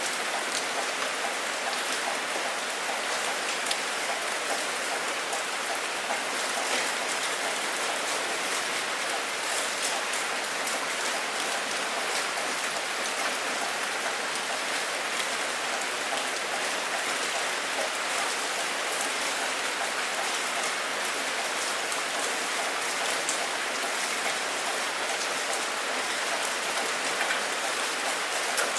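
Steady heavy rain falling, an even hiss with the fine patter of many drops striking a surface.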